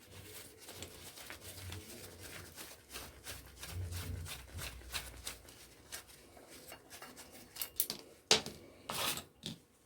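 Faint, rapid small clicks and snips of hand tools working on salvaged aluminium, stripping it of attached wires and bits, with a few sharper clicks near the end.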